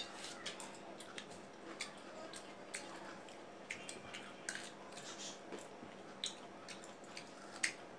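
Two people biting and chewing pieces of fresh fruit such as guava, giving scattered short crunches and mouth clicks over a faint steady hum.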